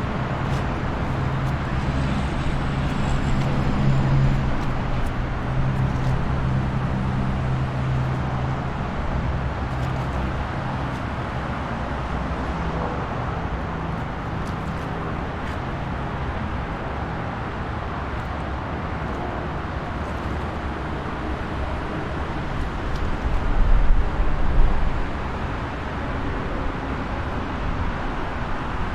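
Highway traffic ambience: a steady wash of passing cars and trucks, with an engine drone swelling in the first several seconds and a low rumble from a heavier vehicle about three-quarters of the way in.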